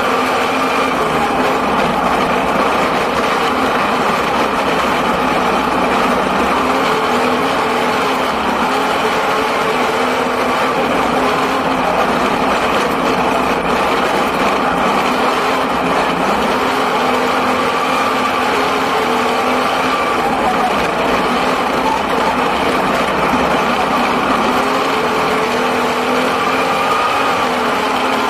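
Six-cylinder speedway sedan's engine at racing speed, heard from inside the cockpit. Its pitch climbs and drops every several seconds as the car accelerates and backs off around the dirt oval.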